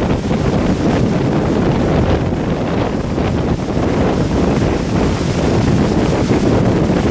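Strong gusting wind buffeting the microphone: a loud, steady low rumble.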